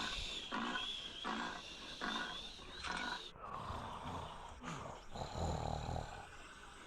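Big cat calling: a run of about five short calls, each under a second apart, then after a break two longer, deeper calls.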